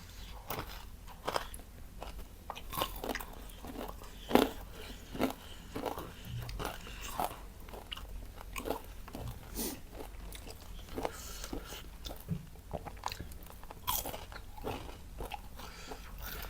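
Close-miked eating: bites and chewing of crunchy fried food, with irregular crisp crunches and crackles, the loudest a sharp bite about four seconds in.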